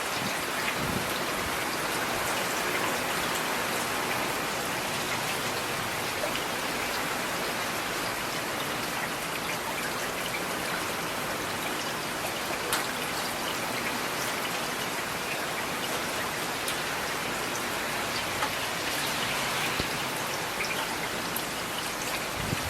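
Steady rain falling on hard surfaces, with individual drops ticking now and then over the even hiss.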